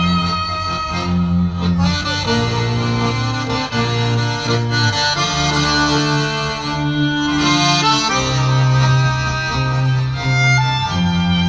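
Live instrumental music from a small ensemble: a melody over held bass notes that change about once a second.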